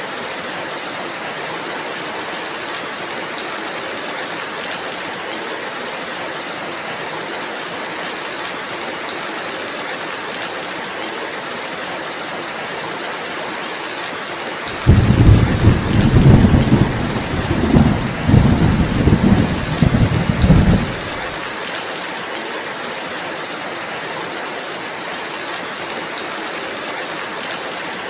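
Steady rainfall hissing. About halfway through, a loud, low rumble of thunder breaks in suddenly, rolls in several swells for about six seconds, then fades back under the rain.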